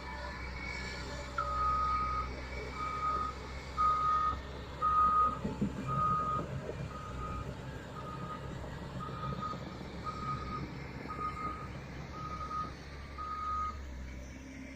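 Excavator's travel alarm beeping about once a second, a dozen single-pitch beeps, over the low, steady running of its diesel engine.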